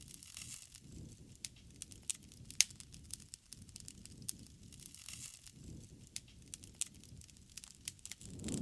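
Wood fire crackling, with scattered sharp pops over a low, uneven rumble of flames; one loud pop about two and a half seconds in.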